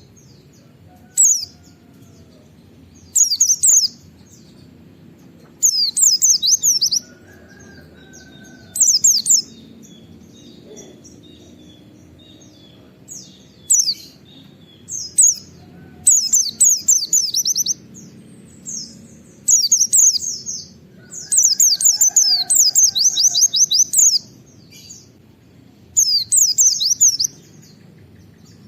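Pleci (white-eye) singing its 'wit wit' shooting song: bursts of rapid, sharp, high falling notes, each lasting from a split second to about two and a half seconds, repeated about a dozen times with short pauses between. A faint low background noise runs underneath.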